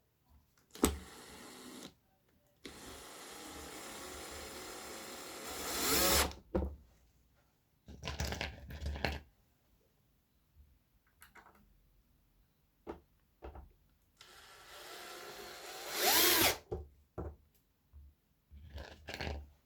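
Power drill running in two long runs of a few seconds each, each growing louder toward its end, with short knocks and clicks between.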